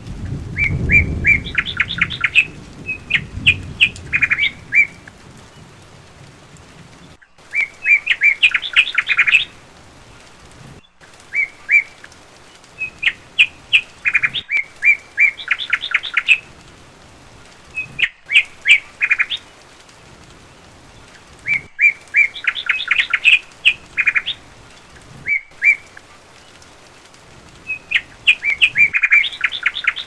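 Bird song: phrases of quick, high chirps repeated every few seconds. A low rumble sits under the first few seconds and fades out.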